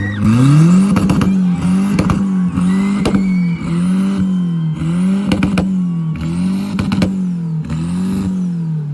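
A car engine revved hard: it climbs quickly, is held high with a regular surging pulse and sharp cracks and pops, then falls back toward idle at the end.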